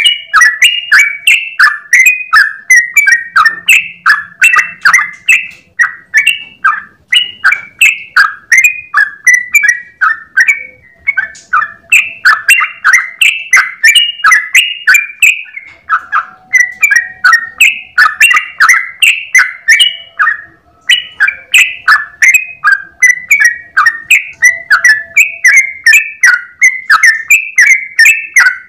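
Yellow-vented bulbul (trucukan) singing a long, rapid run of short, sweeping notes at about three a second, loud and close, broken only by brief pauses about ten and fifteen seconds in.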